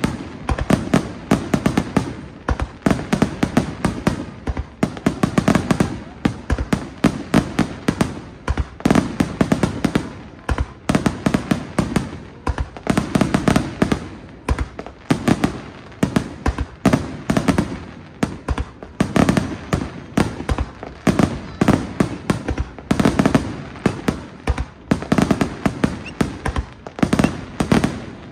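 Aerial firework shells bursting in a finale barrage: rapid, overlapping bangs many times a second, swelling in waves every second or two.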